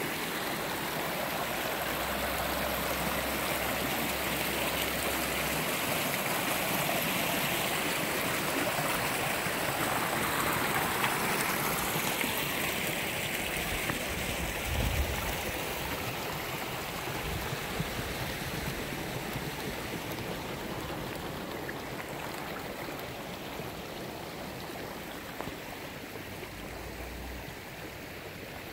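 Water of a stream flowing, an even rushing that eases slightly in the second half. A brief low thump about halfway through.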